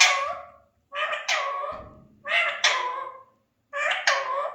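Alexandrine parakeet giving four loud, harsh calls, each under a second long and spaced about a second apart.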